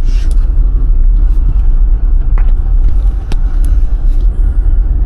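Vehicle driving: a loud, steady low rumble, with a few sharp clicks or rattles around the middle.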